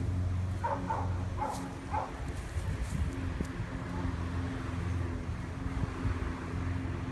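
A dog barks three times, quickly, in the first two seconds, over a steady low hum.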